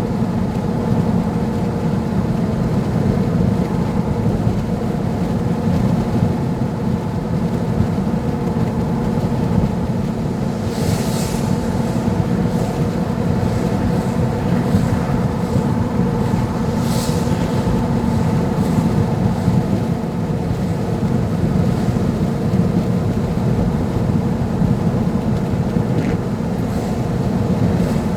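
Steady drone of a vehicle driving on a highway, engine and tyre noise running evenly. Two brief hissing swishes come near the middle.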